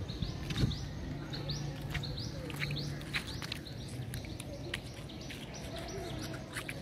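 Small birds chirping repeatedly, short high calls coming about two a second, with a few faint clicks among them.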